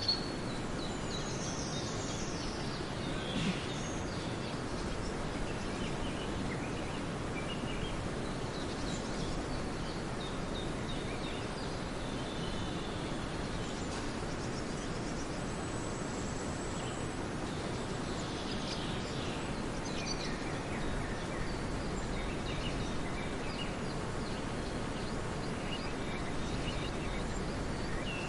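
Outdoor nature ambience: a steady background hiss with scattered bird calls and chirps, including quick falling calls about a second in and again around two-thirds of the way through.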